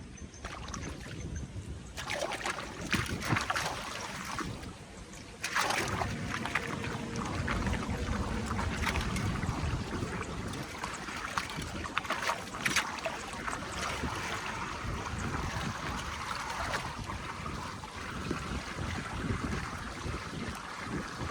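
Water rushing and splashing, with scattered knocks. The sound steps up suddenly about two seconds in and again about five seconds in.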